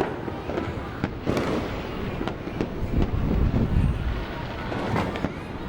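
New Year's fireworks and firecrackers going off in a continuous barrage: sharp bangs every second or so over a steady rumbling crackle.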